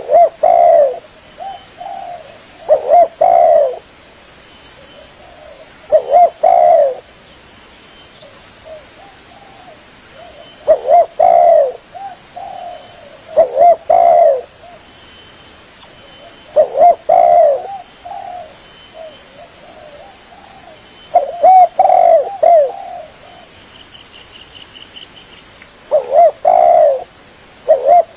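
Spotted dove (tekukur) cooing: a phrase of several coos, each phrase about a second long, repeated about every three to five seconds, eight times over.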